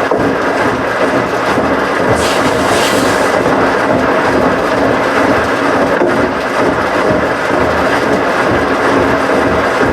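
Washing machines running with a loud, steady rumble, and a brief hiss about two seconds in.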